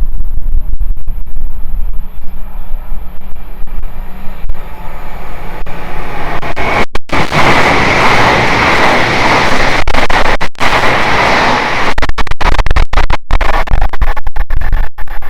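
Wind buffeting the microphone, with a train passing at speed on the main line from about six seconds in: a rising rush of wheel and air noise that peaks in the middle and eases off by about twelve seconds.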